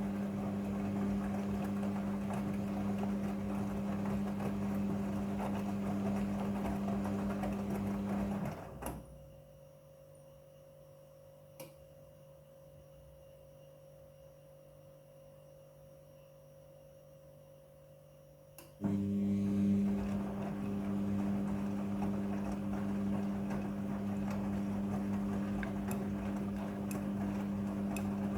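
Midea front-loading washing machine's drum motor running with a steady hum. It stops about nine seconds in, leaving only a faint hum and a single click, then starts again about ten seconds later.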